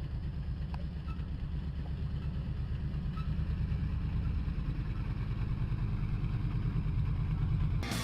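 A big off-road truck's engine running steadily with a deep, even pulse, getting a little louder as it goes. Rock guitar music cuts in at the very end.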